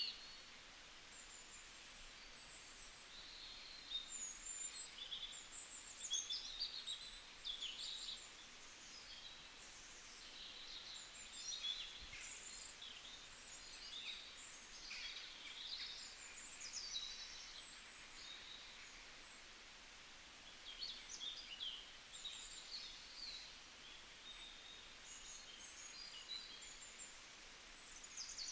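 Several small songbirds chirping and trilling in short high phrases, in bursts throughout, over a faint steady background hiss.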